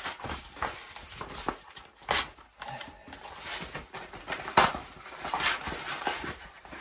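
Cardboard and paper packaging being handled and pulled open: irregular rustling and crackling, in several louder bursts.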